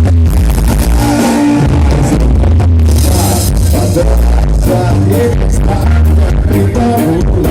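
Loud live band music with singing, a strong steady bass underneath.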